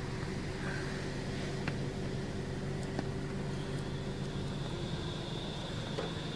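Automatic car wash machine working over the car, heard from inside the car: a steady low hum with a haze of spray and a couple of faint ticks. The rider guesses it is at the waxing stage.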